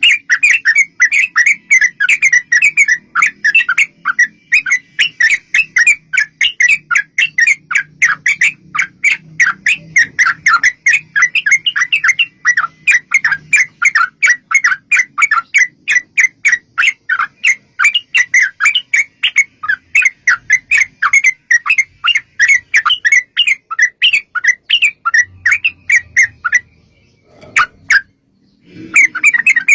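Yellow-vented bulbul (trucukan) singing a long, fast chattering run of quick repeated notes. The run breaks off about 26 seconds in, and the chatter starts again near the end after a short call.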